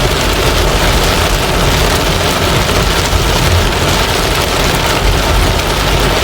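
Heavy rain pouring steadily on a moving car, with the low, steady rumble of the car on the road underneath.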